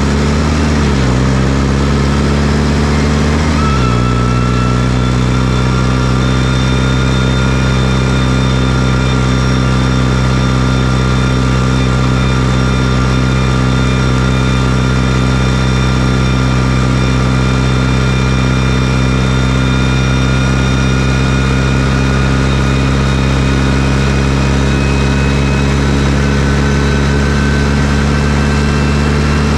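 New Holland T6040 tractor's diesel engine running at steady raised revs, its pitch settling about four seconds in, after which a thin high whine runs alongside the engine note.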